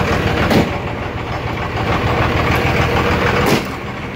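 Twin-turbo 5.9-litre Cummins inline-six diesel, fitted with a Stage 2 VP44 injection pump, idling with a steady clatter. Two short sharp sounds cut in, about half a second in and near the end.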